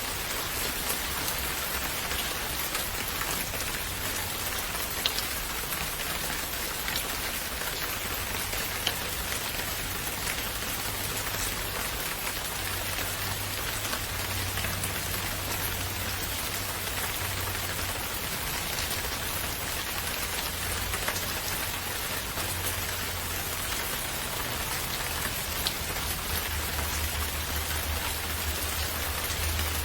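Steady rain falling on surfaces, with scattered sharper drop ticks over a low rumble.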